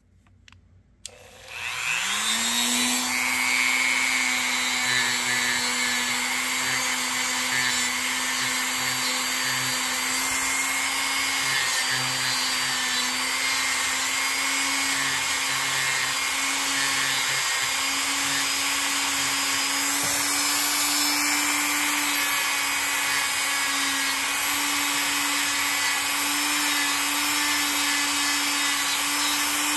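Dremel rotary tool switched on about a second in, its motor quickly winding up to speed and then running steadily while buffing case paste wax to a shine on a pocketknife.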